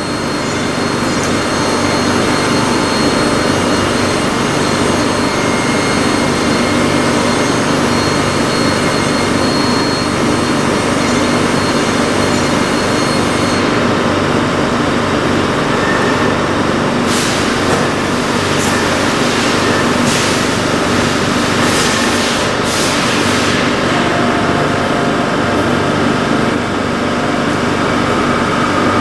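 LarsLap Model C1 valve grinder running steadily, grinding the gasket seating face inside a pressure safety valve's bore, with a steady hum. Between about 17 and 23 seconds in come several short hissing, scraping surges.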